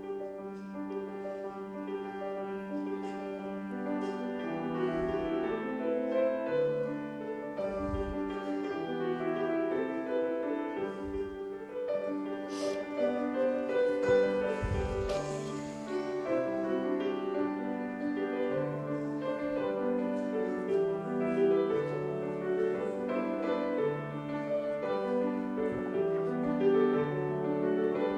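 Slow offertory piano music with sustained, overlapping notes. A few soft low thumps sound underneath.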